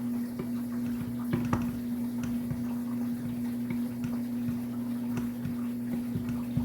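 Thick banana jam simmering in an uncovered pot, its bubbles popping in small irregular ticks over a steady low hum.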